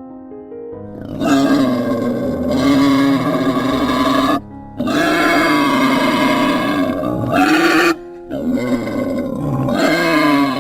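A large animal calling: three long, loud calls of about three seconds each, one after another with short breaks, over background music.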